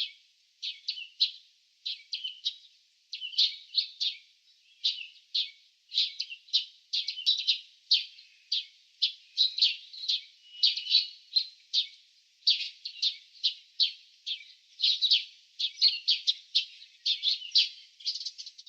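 Small birds chirping: quick runs of short, high chirps, several a second, continuing without pause.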